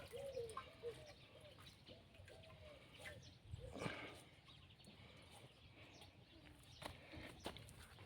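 Faint bird calls: a run of short rising-and-falling notes, about three a second, through the first two seconds. A louder call comes about four seconds in, and a few faint knocks follow near the end.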